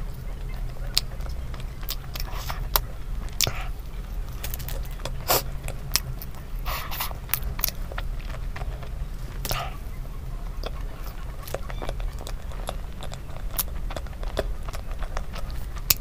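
Close-up mouth sounds of someone eating a soft chocolate doughnut: wet chewing, lip-smacking and scattered mouth clicks, ending with finger licking. A steady low hum runs underneath.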